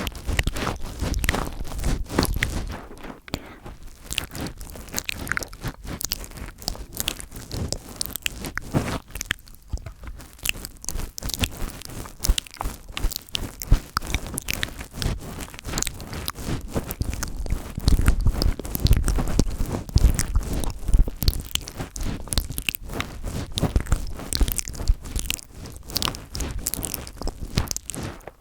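Fingers touching, rubbing and tapping directly on an ASMR microphone: a dense run of close crackling, scratching and soft thumps, heavier in the second half.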